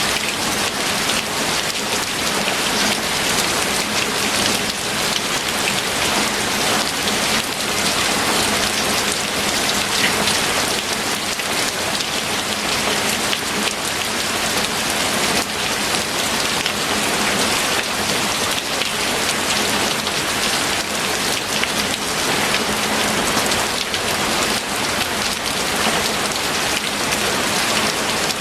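Steady rain falling: a dense, even patter of drops with no let-up.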